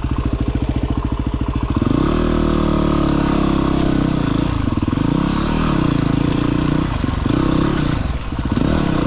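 Single-cylinder dirt bike engine idling, then revved hard about two seconds in and pulling under load, its revs rising and falling several times as the bike is ridden across rocks up a hill.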